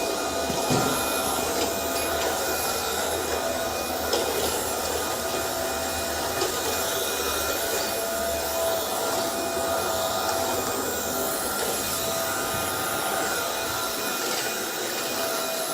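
Roborock Dyad Pro wet-and-dry cordless vacuum running steadily: a motor whine with several steady high tones over a rushing noise, with a few light knocks.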